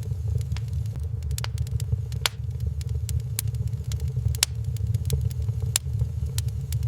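Wood fire burning in a fireplace: a steady low rumble with irregular sharp crackles and pops, several a second.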